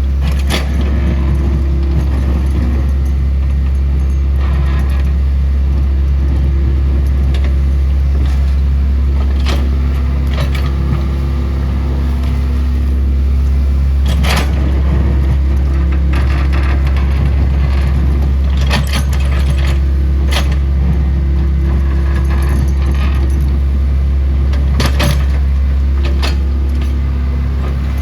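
Excavator's diesel engine running steadily under a deep hum, with sharp metallic clanks and rattles now and then, the loudest about halfway through and several close together near the end.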